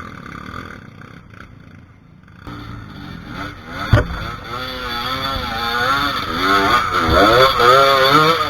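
Trail motorcycle engine revving hard and unevenly, its pitch swinging up and down with the throttle as it labours up a steep climb. It is quieter at first and builds from about two and a half seconds in, with one sharp knock at about four seconds.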